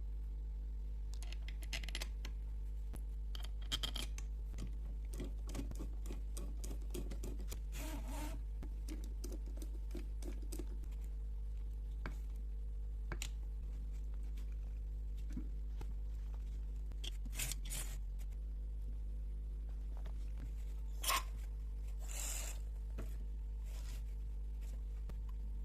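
Scattered light clicks, taps and short scrapes of small carburetor parts and hand tools being handled, over a steady low hum.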